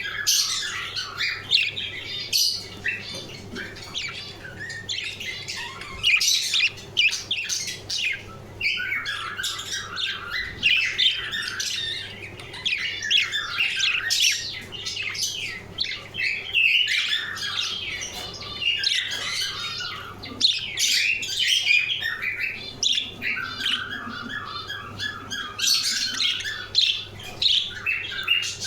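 Budgerigars chattering without pause: a dense mix of warbling chirps and harsh squawks from several birds at once, over a faint steady low hum.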